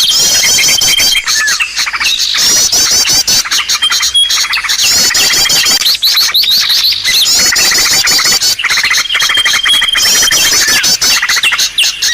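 Bird-lure recording of small songbirds calling over one another: rapid runs of high chirps and trills with a thin held whistle, the same phrases repeating in a dense, continuous chorus.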